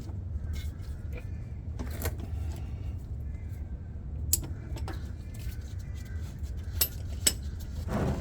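A socket and ratchet on the truck's oil drain plug: a few sharp metal clicks and clinks a couple of seconds apart as the plug is worked loose. A steady low rumble runs underneath.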